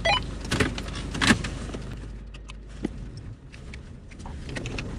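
Vehicle engine running low and steady, heard from inside the cabin as the 4WD reverses and manoeuvres, with a few sharp clicks and knocks. The engine hum drops away about three seconds in.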